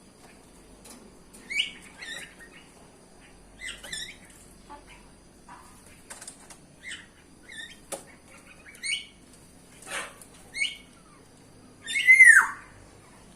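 Bulbuls (merbah) giving short calls that glide up and down in pitch, one after another at uneven intervals, the loudest a longer falling call near the end. A few short clicks fall between the calls.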